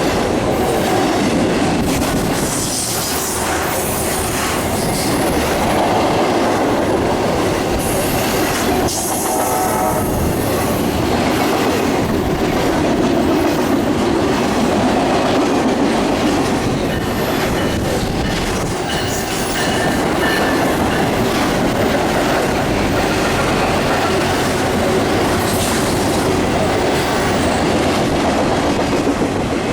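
A train rolling past close by: a continuous loud rush of steel wheels on rail that swells and eases slightly, lasting the whole stretch.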